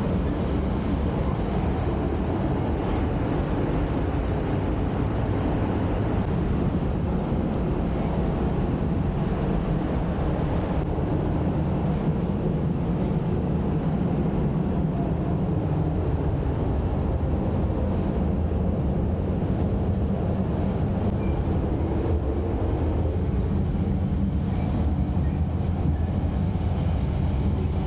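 Steady low rumble of an E5 series Shinkansen running on the line, heard from inside the car.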